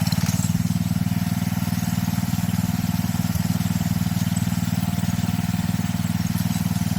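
Small garden tractor engine running at a steady speed, an even, fast pulse of firing strokes with no change in speed.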